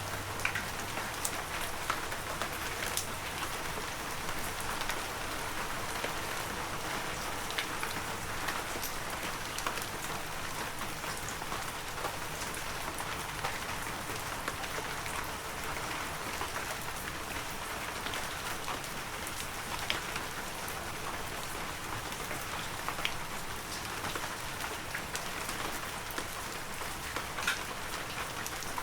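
Heavy rain falling steadily, with many individual drops landing close by as sharp taps scattered through the downpour.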